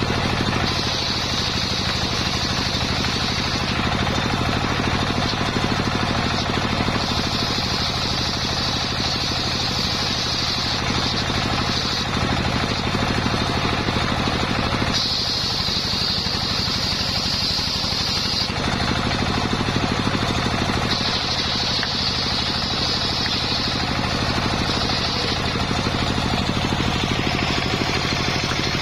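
Homemade engine-driven circular saw running steadily while sawing a coconut trunk. A high blade whine comes and goes several times, each stretch lasting a few seconds.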